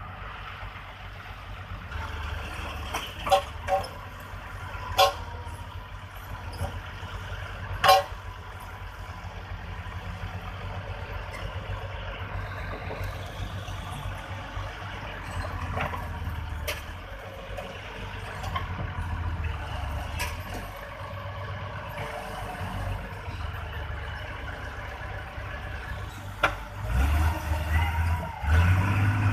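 Bulldozer's diesel engine running steadily, with a few sharp metallic clanks in the first eight seconds and heavier low thumps near the end.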